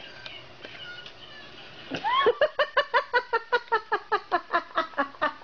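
Two house cats scuffle, with a short rising cat cry about two seconds in. A person then laughs in quick high-pitched bursts, about six or seven a second, until the end.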